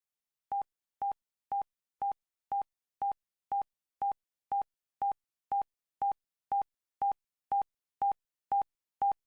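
Countdown timer: short electronic beeps at one mid pitch, about two a second, ticking off the ten seconds given to answer.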